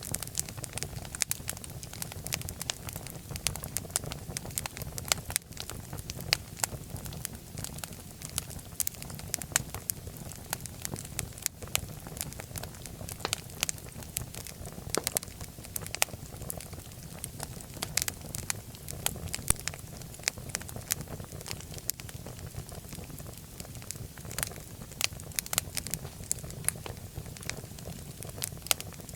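Fire crackling in a fireplace: frequent irregular sharp pops and snaps over a steady low rumble of flames.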